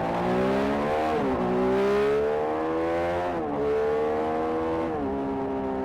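Vehicle engine accelerating through the gears. Its pitch climbs steadily and drops sharply at three upshifts: about one second in, about three and a half seconds in, and about five seconds in.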